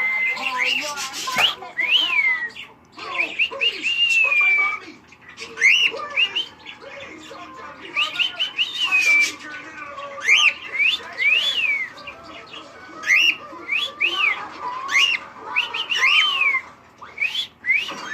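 Pet cockatiel whistling: a long string of short rising-and-falling whistle notes, with a few longer held notes in between.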